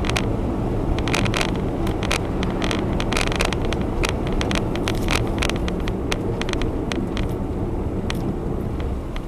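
Honda Zest Spark kei car driving, heard from inside: a steady rumble of road and engine noise, with frequent irregular clicks and ticks that thin out near the end.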